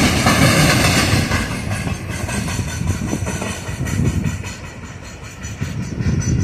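Freight train passing, its wheels rumbling and clattering over the rail joints, loud at first and dying away after a second or so, with a few further low rumbles.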